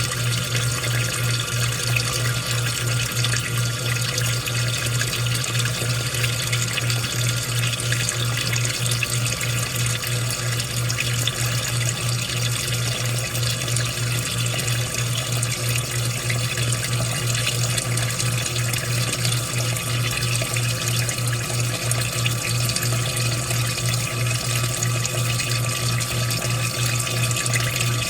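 Washing machine running: a steady rush of water over a low, steady hum.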